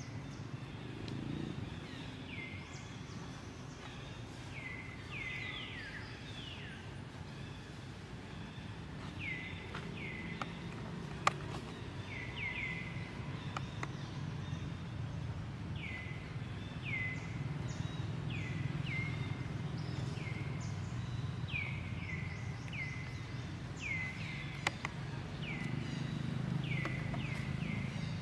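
Short high chirps, each falling quickly in pitch, repeated irregularly about once a second over a steady low rumble, with a couple of sharp clicks.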